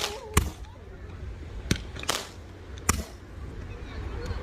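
Fireworks bursting overhead: about five sharp bangs spread irregularly over the first three seconds.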